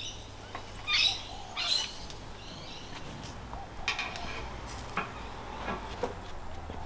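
A bird chirping: two short, high calls about a second in and just under two seconds in, then a few fainter chirps and clicks.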